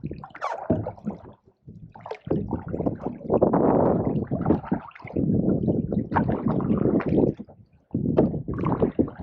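Canoe paddle pulling through pond water with a gurgling wash, in a few long strokes separated by short pauses.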